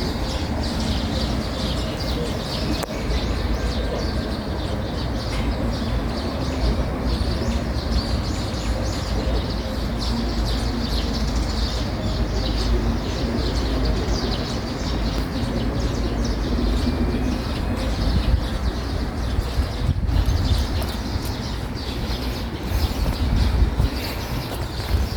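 Small birds chirping and tweeting over a steady low rumble.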